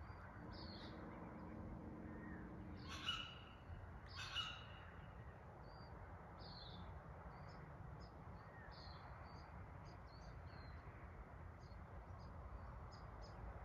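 Birds calling outdoors: short high chirps scattered throughout, with two louder, harsher calls about three and four and a half seconds in, over faint steady background noise.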